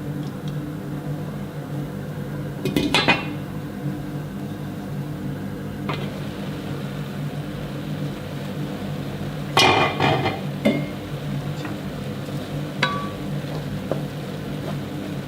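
Kitchen dishes and pots clattering, with two louder rattles about three seconds and about ten seconds in and a few light clinks between, over a steady low hum.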